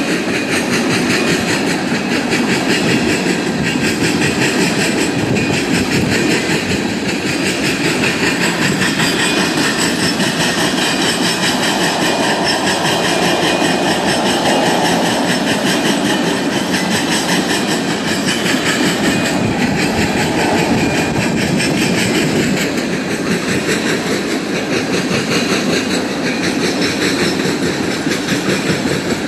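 Freight train of tank cars rolling past, steel wheels running over the rails in a steady, unbroken clatter.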